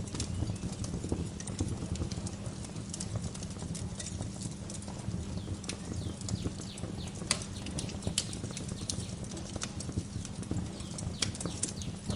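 Wood fire crackling in a fireplace: a steady low rumble under many irregular sharp pops and snaps.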